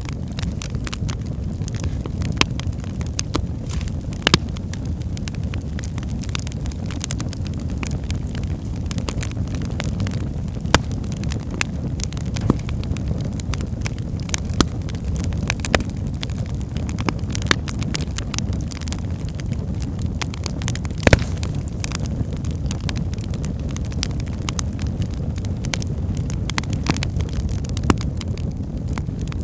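Wood fire burning in a fireplace: a steady low rumble with irregular sharp crackles and pops of burning logs, the loudest pop a little after two-thirds of the way through.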